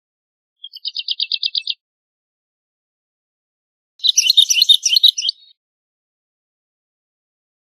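Woodlark singing two short phrases with silent gaps between them. The first, about half a second in, is a quick run of about ten repeated notes. The second, about four seconds in, is denser and more varied.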